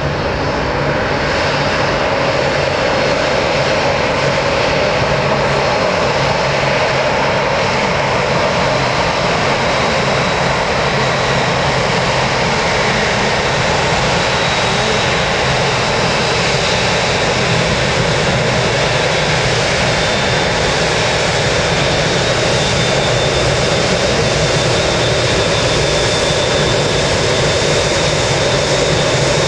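Jet airliner engines running loud and steady, with a steady high whine over the noise.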